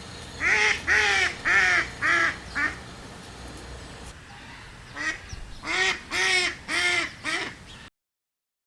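Duck quacking in two runs of about five short quacks each, the second run starting about five seconds in; the sound cuts off suddenly near the end.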